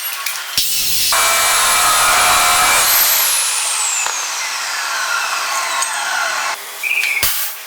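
Electric power tool cutting with a high motor whine for a couple of seconds, then switched off, its whine falling steadily in pitch as it winds down over about three seconds. A sharp knock near the end.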